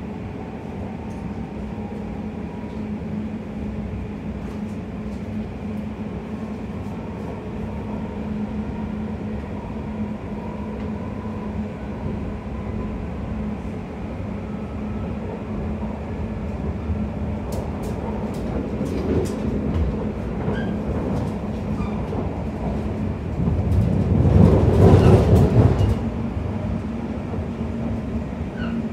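Class 345 electric train running at speed, heard inside the carriage: a steady rumble with a constant low hum, which grows louder for about two seconds near the end.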